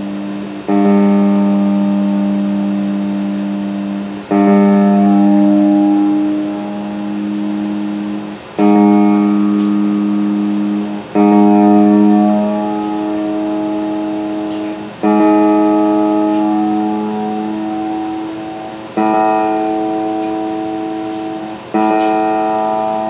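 Plucked string instrument, freshly tuned, strummed one chord at a time. Seven chords, each left to ring out and fade before the next, as a check of the tuning.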